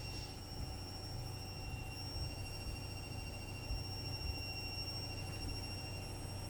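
A washing machine running: a steady low hum under a constant high-pitched whine.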